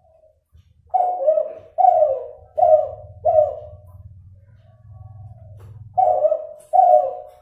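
Spotted dove (derkuku), an F2 Kelantan-type crossbreed, cooing: four short loud coos about one a second, a softer drawn-out note, then two more loud coos. The breeder describes its voice as still nasal, with an inconsistent number of closing notes.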